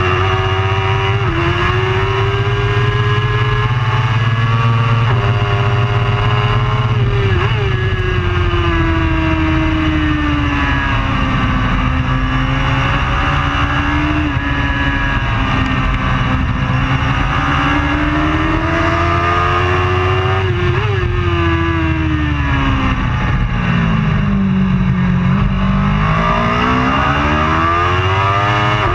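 Superbike racing motorcycle engine running hard at race pace, its pitch climbing and falling continuously as it accelerates and slows through the corners, with a few quick breaks in the note. Near the end the pitch drops deep as the bike slows for a tight corner, then rises again as it accelerates away.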